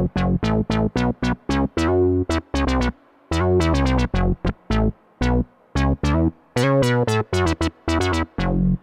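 IK Multimedia UNO Synth PRO X analog synthesizer playing a fast run of short notes, each cut off sharply, with brief breaks between phrases.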